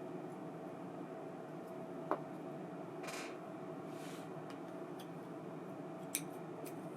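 Light clicks and brief rustles of small parts being handled over a steady faint hum: a sharp click about two seconds in, two short rustles a second apart, then a few lighter clicks near the end.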